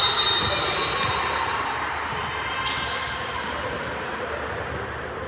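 Basketball game in a gym: a ball bouncing on the hardwood floor, short high squeaks from sneakers, and the echoing murmur of the hall.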